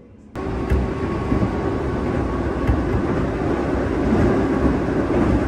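Electric local train running at speed, heard from inside the passenger car: a loud, steady rumble of wheels on rail with a faint steady hum, as it crosses the Tone River bridge. The sound cuts in abruptly just after the start.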